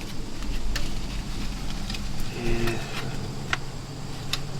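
Scattered sharp clicks and small scrapes of a pick and side cutters prying metal debris out of a damaged wheel hub, over a low rumble; a low steady hum comes in about halfway through.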